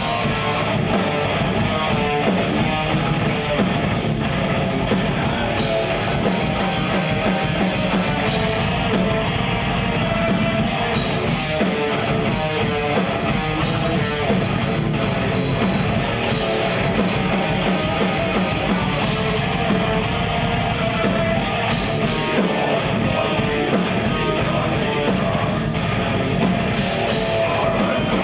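Live progressive death metal band playing an instrumental passage: distorted electric guitars, bass and drum kit.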